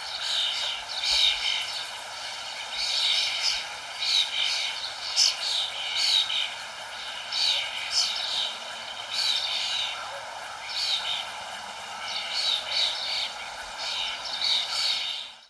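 Small birds chirping in quick clusters of short, downward-sliding high notes, over a steady background hiss. The whole sound cuts off suddenly at the very end.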